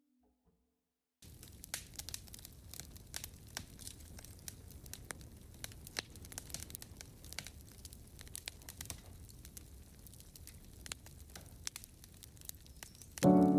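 Wood campfire crackling, with many irregular sharp pops and snaps over a low rumble. It starts about a second in.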